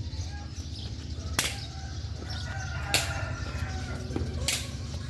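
Sharp cracks, three of them, evenly spaced about a second and a half apart, over a steady low rumble.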